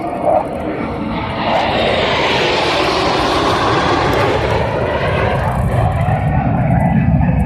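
F-16 Fighting Falcon fighter jet making a low pass. The jet noise swells to a peak with a loud hiss about three seconds in, then falls away to a deep rumble as the aircraft moves off.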